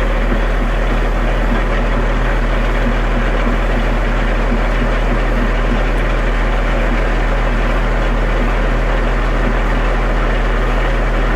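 Concrete mixer truck's diesel engine idling steadily, a constant low drone with no change in speed.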